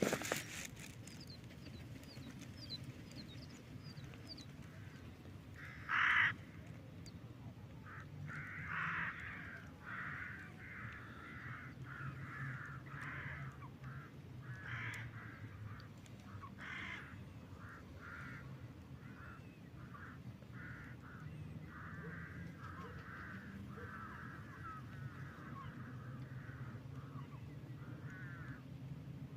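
Crows cawing: a string of short harsh calls, one loud caw about six seconds in, then many more calls following one after another.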